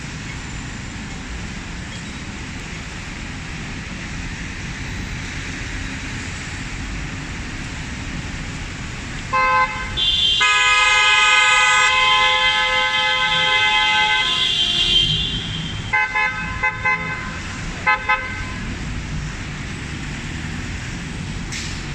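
Steady rain and street traffic noise, cut into by a vehicle horn: one short toot, then a long blast of about five seconds, then a string of quick short toots.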